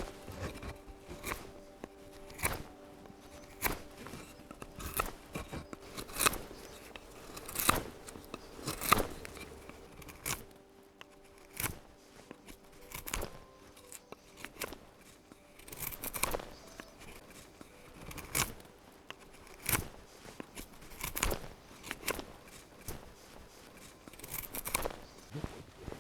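Crisp cutting strokes, a blade working through food or wood while ingredients and fire are prepared, coming irregularly about once a second.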